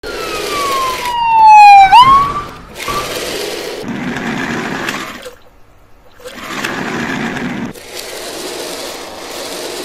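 A loud whistle-like tone sliding down in pitch, then flicking sharply back up about two seconds in, followed by stretches of steady rushing noise with a short break in the middle.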